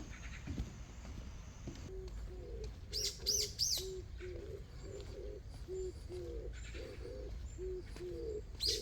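A dove cooing: a run of short, low, repeated coo notes, about two a second, starting about two seconds in. A small songbird gives a few quick, high chirps a second later and again near the end.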